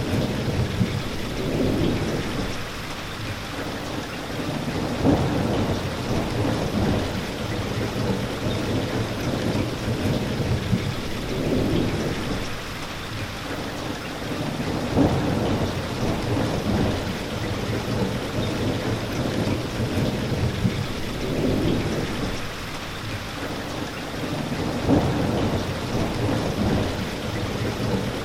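Steady rain falling, with low rumbles of thunder that swell and fade every few seconds.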